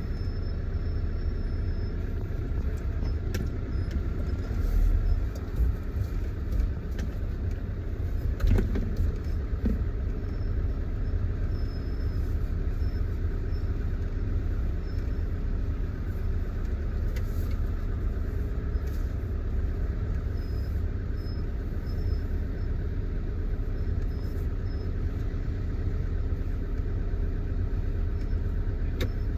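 Small cargo truck running at low speed, heard from inside the cab: a steady low engine rumble with road noise, and a few brief knocks about eight seconds in.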